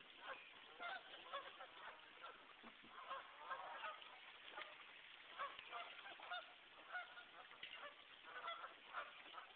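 A flock of geese honking, faintly: many short calls overlapping without a break.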